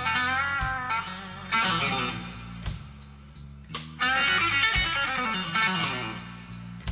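Live slow-blues band playing instrumentally: an electric guitar solo with bent, vibrato notes over bass guitar and drums with cymbal hits.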